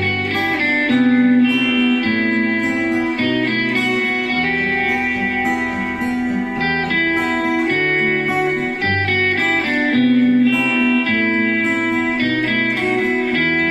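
Instrumental introduction of a rock song: a sustained, singing electric lead guitar over a stepping bass line and a drum beat.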